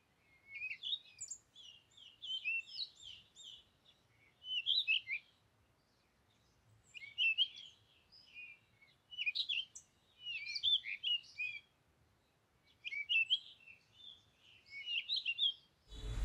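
Small birds chirping and twittering in clusters of quick, high calls, with pauses of a second or two between the clusters.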